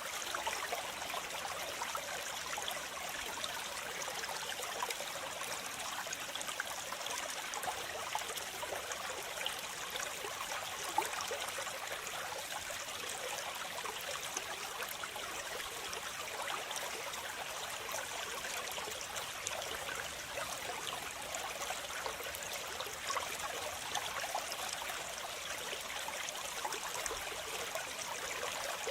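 Waterfall: the steady rush and splash of falling water, an even bright hiss with little low rumble.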